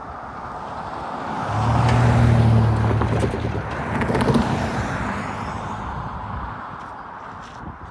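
A vehicle passes close by, its sound swelling to a peak about two seconds in, carrying a steady low hum while it is loudest, then fading over the next few seconds.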